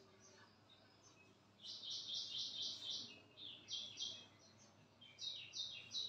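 Small songbird chirping: a fast run of high, sharp notes starting about a second and a half in, then two shorter groups of two or three notes.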